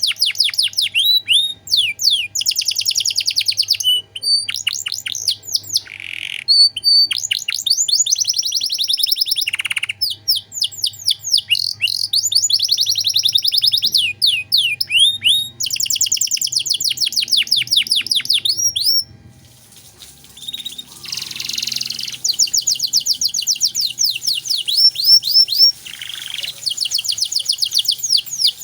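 Domestic canary singing long, fast trills of repeated high, downward-sweeping notes, run together into an elaborate song with a short pause about two-thirds of the way through.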